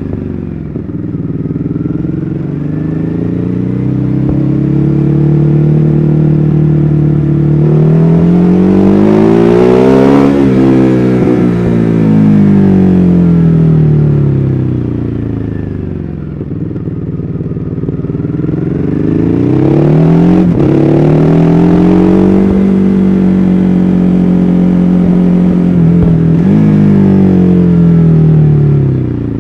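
2014 Ducati Hyperstrada's 821 cc Testastretta V-twin engine under way, revving up to a peak about ten seconds in and then easing off. It picks up again with a quick shift around twenty seconds in, holds a steady pull, and drops off near the end.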